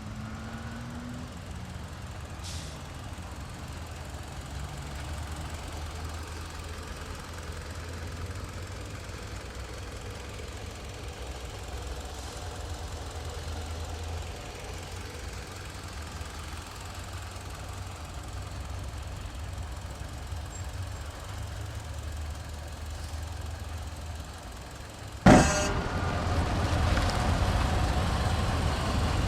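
The Citroën C-Crosser's 2.4-litre inline-four engine idling steadily with a low hum. About 25 seconds in there is one sharp bang, after which the sound is louder.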